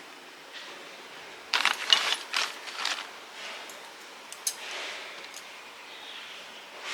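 Small metal parts and tools being handled: a quick run of clinks and rattles about a second and a half in, then a few lighter clicks.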